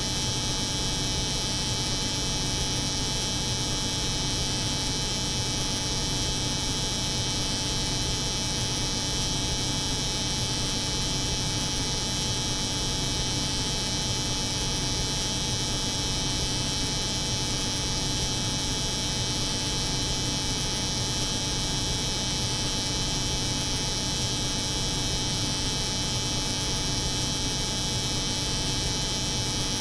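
Steady, unchanging layered drone of a cold room's refrigeration hum mixed with an electric hair clipper buzzing, with a low hum and a bright hiss.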